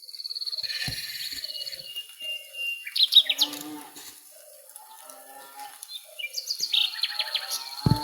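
Birds chirping over a high, fast-pulsing trill that sounds in two long stretches, one at the start and one near the end, with faint short low calls of other animals in between.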